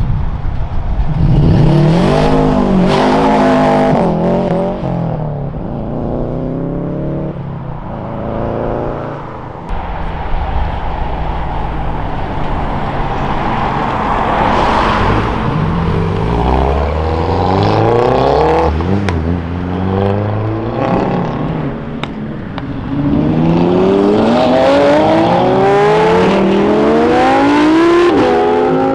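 Modified cars accelerating hard away one after another, each engine note rising in pitch and dropping back at every gear change. The loudest pulls come about a second in and again in the last few seconds.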